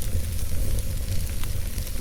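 Wood fire crackling in a fireplace: a steady low rumble and hiss with scattered small pops.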